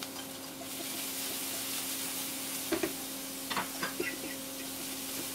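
Chopped green bell pepper sizzling in hot oil in a frying pan, with a few light clicks and scrapes of a spatula stirring it about three to four seconds in.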